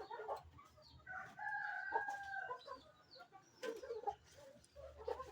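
A rooster crowing once, faintly, starting about a second in and held for about a second and a half, with a few other faint short sounds around it.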